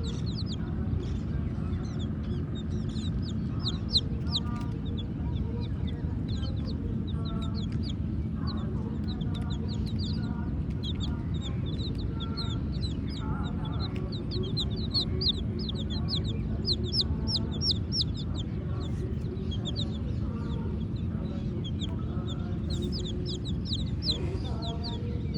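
Baby chicks peeping, many short, high, falling chirps in quick succession throughout, with lower clucking calls mixed in over a steady low rumble.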